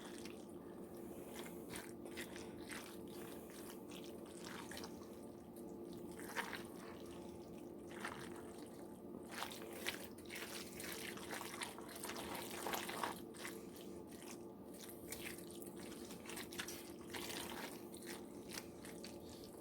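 Macaroni and cheese being stirred with a spoon: soft, irregular wet squelches and clicks. A steady low hum runs underneath.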